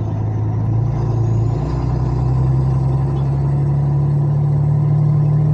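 Truck's diesel engine running steadily at low revs in slow traffic: a loud, even drone whose pitch steps up slightly about two seconds in.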